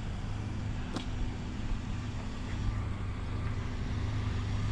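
Motor vehicle running, a steady low rumble, with a single sharp click about a second in.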